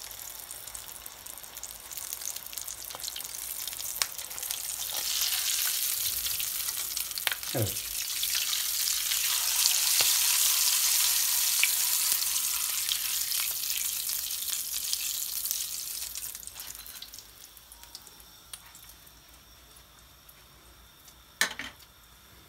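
Yufka börek filled with kokoreç frying in hot oil in a pan: a steady sizzle that swells to its loudest about ten seconds in, then fades away. A single knock near the end.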